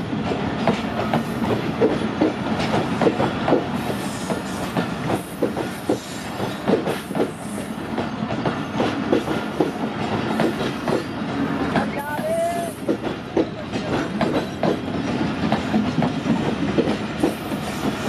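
Passenger train coaches rolling past close by, their wheels clattering steadily over the rail joints in an uneven run of knocks over a continuous rumble.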